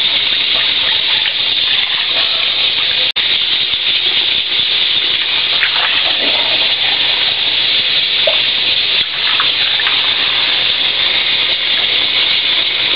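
Kitchen tap running steadily as soaked bird seed is rinsed under it, cutting out for an instant about three seconds in.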